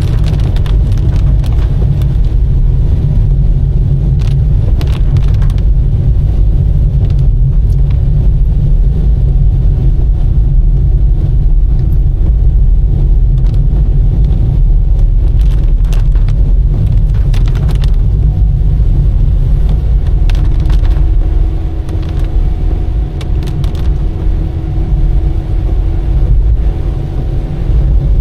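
Car driving on a rain-wet road: a steady low rumble of engine and tyres, with scattered sharp ticks. It drops a little in loudness for several seconds past the middle.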